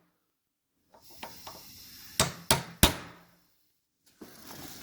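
A hammer drives a chisel against steel bolt ends, peening (staking) them into a motorcycle clutch damper unit so they cannot work loose. There are two light taps, then three hard strikes in quick succession.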